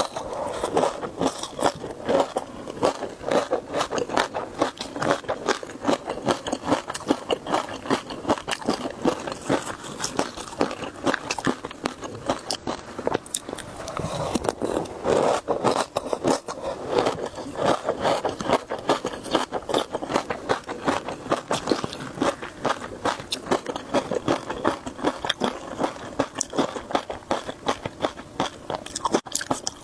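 Close-miked chewing and crunching of shrimp: a steady run of rapid crunchy crackles and wet bites as the food is chewed.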